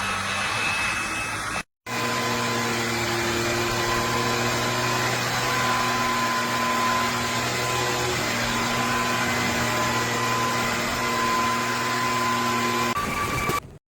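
Bissell PowerClean upright vacuum running steadily, a motor hum with a constant whine over airflow noise. The sound drops out abruptly for a moment under two seconds in, changes pitch slightly near the end, then cuts off.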